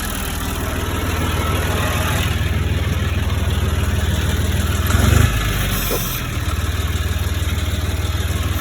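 Tractor engine running steadily, with a brief surge in level about five seconds in.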